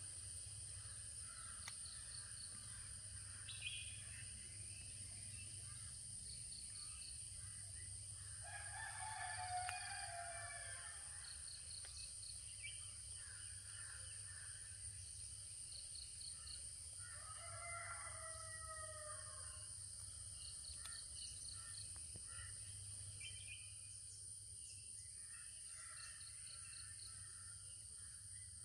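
A rooster crowing twice, loudest about nine seconds in and again more faintly around seventeen seconds. Between the crows, short rapid ticking series repeat every few seconds over a steady high whine.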